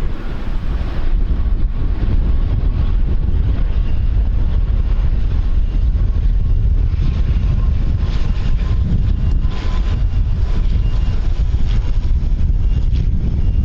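Strong wind buffeting the microphone, with the steady whine of an airliner's engines underneath.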